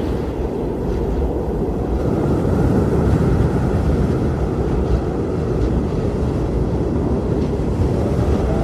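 Strong blizzard wind blowing steadily: a dense, low rushing noise without any clear tone, swelling slightly a few seconds in.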